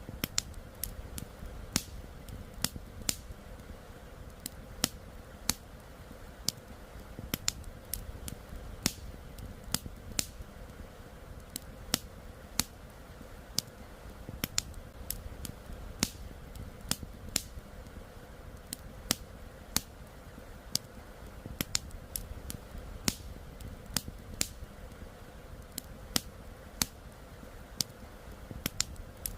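Campfire crackling, with sharp irregular pops a few times a second over a steady low rushing background.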